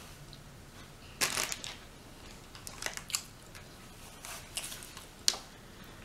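Hands pulling meat off a whole rotisserie chicken: short tearing, rustling sounds about a second in, around three seconds and around four seconds. A sharp click comes a little after five seconds.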